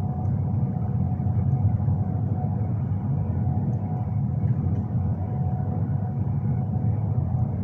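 Steady low rumble of a train running, with a faint steady hum above it and no distinct events.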